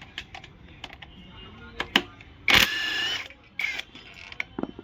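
Hand tools working on an engine: scattered metal clicks and ratchet sounds, with one loud whirring burst lasting under a second about two and a half seconds in, as the crankshaft pulley bolt is being undone.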